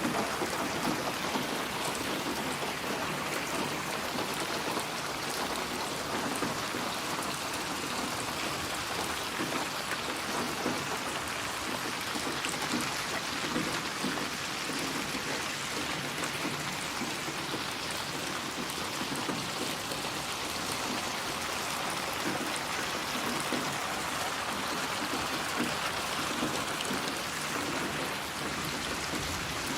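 Steady rain falling, a continuous even hiss of many drops with no distinct thunderclaps.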